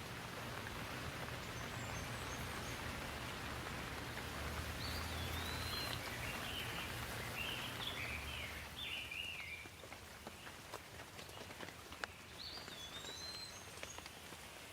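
Steady rain hiss that eases about two-thirds of the way through, leaving separate drops ticking, with one sharper drip near the end. A bird calls a few short chirps in the middle and again near the end.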